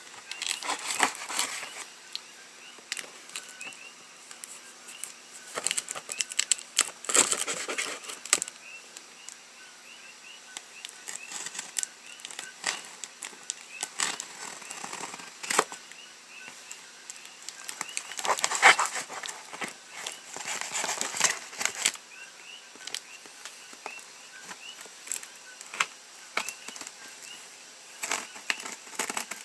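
Cardboard boxes and packaging being opened and handled: scattered rustling, crinkling, tearing and knocks, busiest about a quarter of the way in and again a little past the middle.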